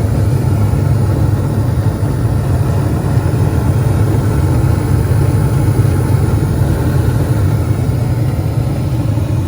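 Gas furnace firing: a steady low roar from the burners and draft-inducer fan, with no change in pitch or level. The main blower has not yet started.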